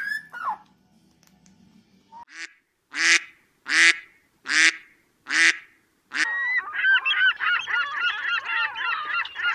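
Waterfowl calling: five separate honks about three-quarters of a second apart, then, from about six seconds in, a flock's dense, continuous chatter of overlapping calls. A short gliding whistle sounds right at the start.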